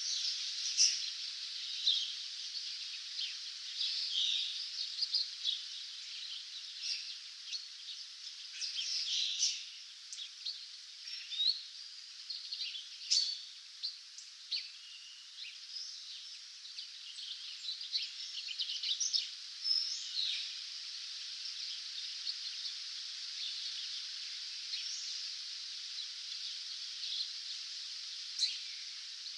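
Songbirds at dawn, several calling and trilling in short chirps over a steady high hiss; the singing thins out about two-thirds of the way through.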